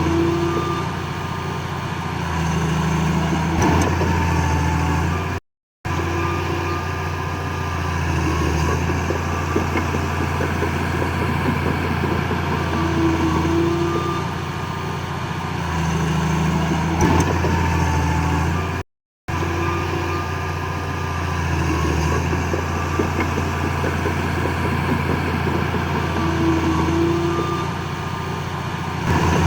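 Heavy diesel engine of an earthmoving machine running steadily, its load rising and easing every few seconds. The sound cuts out to silence twice, briefly.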